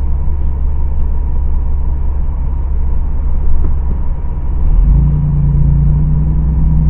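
Car cabin noise while driving: heavy low engine and road rumble. About five seconds in, a steady low hum comes in and holds.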